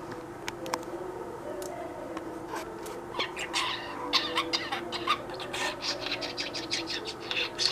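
Small pet cage bird chirping in quick, short notes that grow busier from about halfway, over a steady low household hum.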